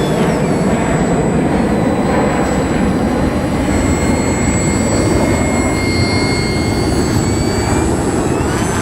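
Remote-control model airplane's motor and propeller running steadily at high power, with a thin high whine over a loud, dense rush.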